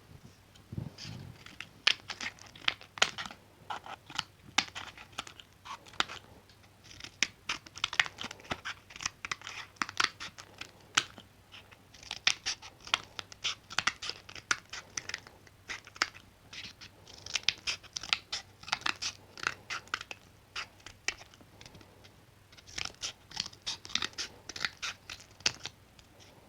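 Scissors snipping close to the microphone in quick runs of cuts, about five runs with short pauses between them.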